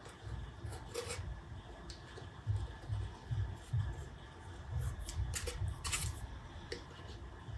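Handling noise: short scratchy rubbing and scraping sounds over repeated soft low bumps.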